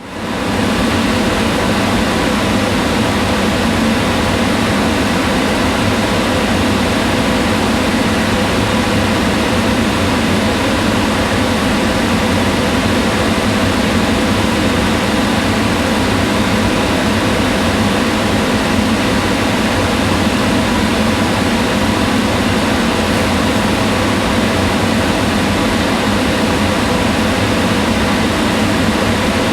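Kitchen range hood fan running steadily: a constant low whooshing hum with a few faint steady tones in it, fading in at the very start.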